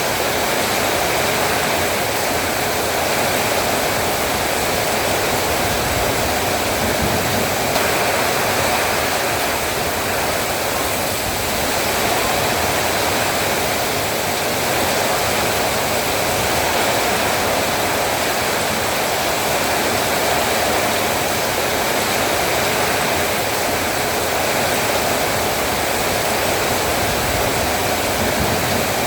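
Heavy rain falling steadily, with a constant dense wash of noise.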